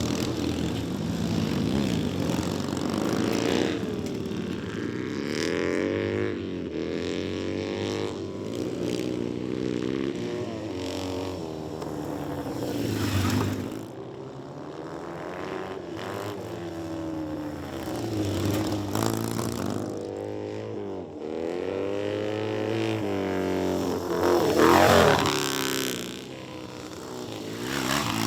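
Vintage racing motorcycles on track, their engines revving up and backing off again and again as they go through the corners. One bike passes closest and loudest about three-quarters of the way through, its pitch rising and then dropping as it goes by.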